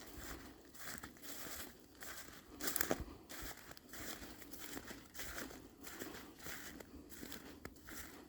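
Footsteps crunching through light snow over wet leaves, about two steps a second, with one louder crunch about three seconds in.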